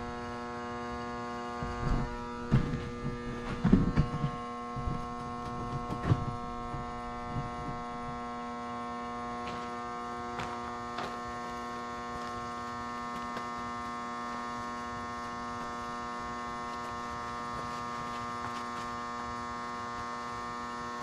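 Steady electrical mains hum, a buzzing stack of even tones. Over the first several seconds there are scattered knocks and clatter, then the hum goes on alone.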